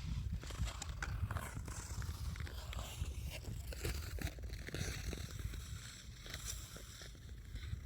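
Ice skate blades gliding and scraping over smooth lake ice: irregular short scrapes and clicks with a hiss, over a steady low rumble.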